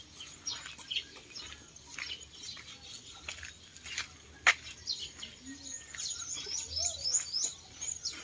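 Small birds chirping over and over with short high calls, thickening into a quick run of chirps after about six seconds. A single sharp click about four and a half seconds in.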